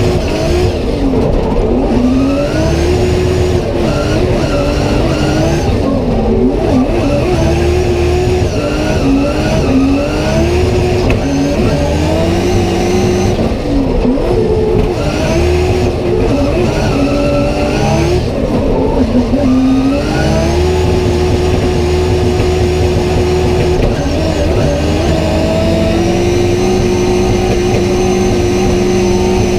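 Drift car engine revving hard, its pitch rising and dropping again and again, then held steady at high revs for long stretches in the last third.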